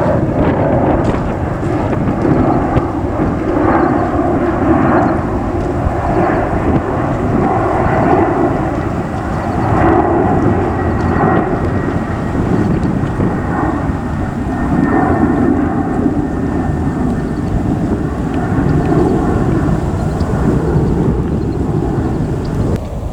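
Jet airliner's engines at high power, a loud steady rumble with a faint high whine, swelling and easing in slow waves and dropping off sharply at the very end.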